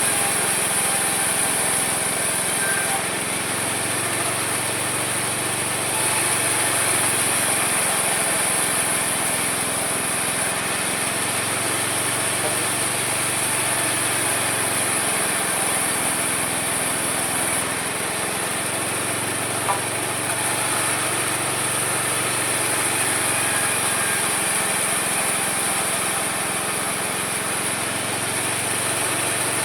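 Homemade mini sawmill running steadily as it saws through wood, a continuous motor-and-blade noise with a constant high whine. The lower part of the sound swells and eases every few seconds as the cut loads the blade.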